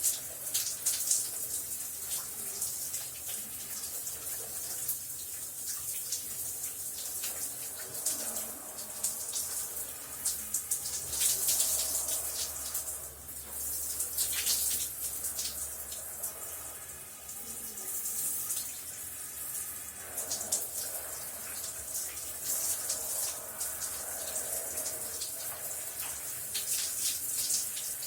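Shower water spraying and splashing, a steady hiss of falling water with fine spatters that swells and eases a little.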